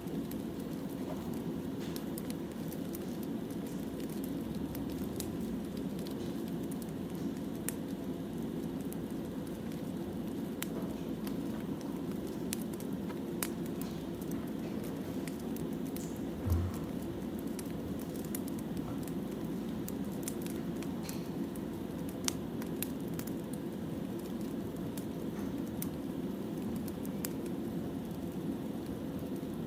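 Wood fire burning, a steady low rush with frequent sharp crackles and pops from the burning logs. One soft low thud about halfway through.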